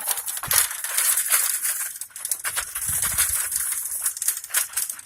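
Footsteps crunching on gravel, an irregular gritty crunch every few tenths of a second.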